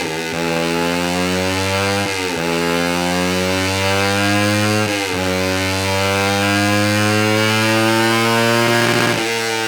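Suzuki GSX-R150's single-cylinder engine through a Yoshimura R77 full-system exhaust, accelerating under load on a dyno. Its pitch climbs steadily and drops sharply four times as it shifts up through the gears.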